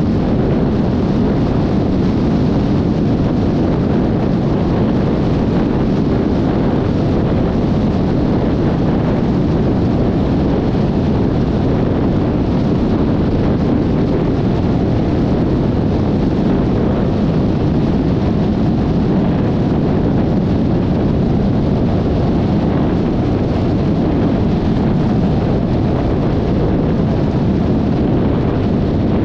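Steady wind rush and road noise while riding a Yamaha XMAX 300 scooter, loud and unbroken, with no distinct engine note standing out.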